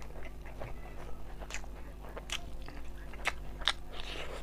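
Close-miked chewing of rice eaten by hand: wet mouth smacks and irregular clicks, several a second, over a low steady hum.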